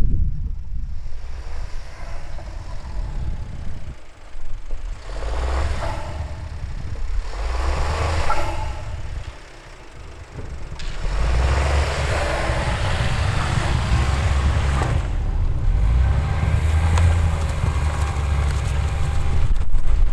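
Wind buffeting the microphone, a gusty low rumble that rises and falls over several seconds, with rustling noise swelling in and out above it.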